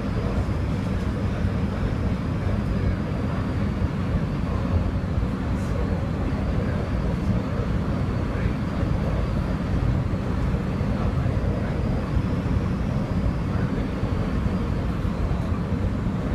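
Steady rumble and wheel-on-rail noise heard from inside a SEPTA Silverliner IV electric railcar running at speed.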